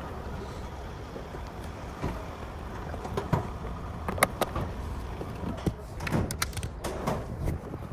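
Scattered clicks and knocks over a steady low rumble, growing busier about halfway through.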